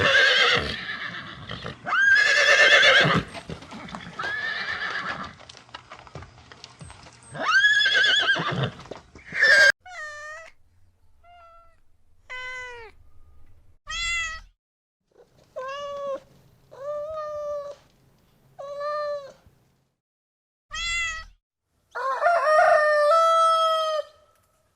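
A series of cat meows, several separate rising-and-falling calls, followed near the end by a horse's whinny with a quavering pitch.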